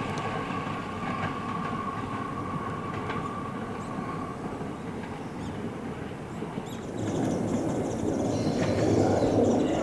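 Electric commuter train running at the station: a steady whine fades out in the first half. About seven seconds in, a louder rumble of train wheels on the rails builds up.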